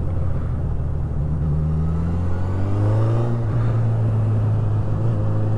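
Honda CB1000R's inline-four engine pulling in third gear, heard from the riding motorcycle. About three seconds in the note dips briefly, then its pitch climbs steadily as the bike accelerates.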